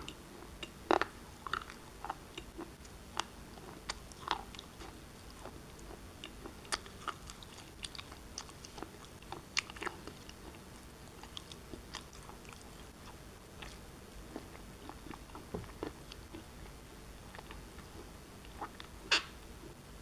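Pieces of black shale being bitten and chewed: irregular sharp crunches and cracks. A louder crack comes about a second in and another near the end.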